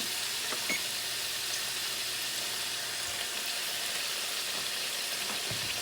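Potato fries shallow-frying in hot vegetable oil, a steady sizzle. This is the second, longer fry that turns them golden and crunchy.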